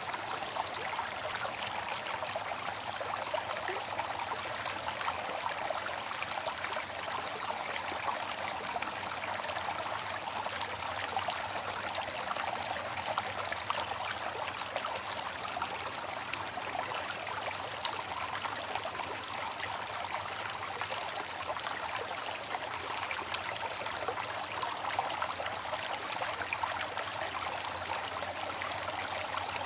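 Water fountain splashing and trickling steadily, an even rush of falling water with no changes.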